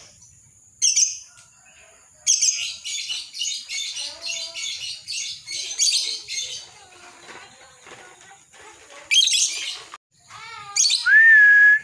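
Lovebird chattering in its long 'ngekek' song, shrill and high. A short call comes about a second in, then a fast run of repeated chirps lasts about four seconds, then more shrill bursts follow, the last and loudest with a rising whistled note near the end.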